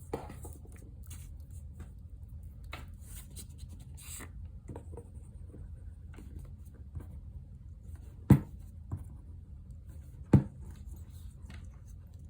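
Paper-craft handling at a desk: soft rustling of paper and light ticks as pieces are moved and pressed into place, with two sharp knocks about two seconds apart in the second half, like a tool or object set down on the table.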